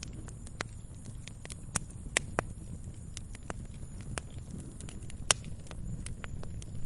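Wood fire crackling in a fireplace: irregular sharp pops and snaps, one much louder just past the middle, over a steady low rumble of the flames.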